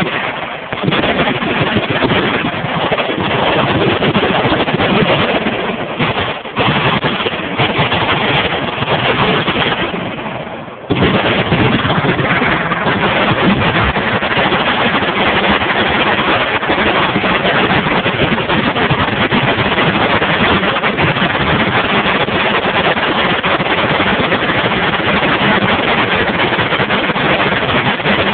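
Many machine guns firing at once, their shots running together into a dense, continuous roar that overloads a phone microphone. It eases off briefly a little before the middle, then resumes at full strength.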